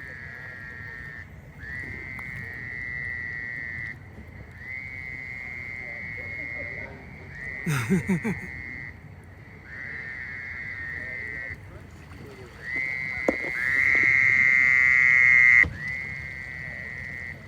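Small frogs calling at the lake edge: about seven calls, each lasting one to two and a half seconds, one after another every two to three seconds, the loudest about three-quarters of the way through.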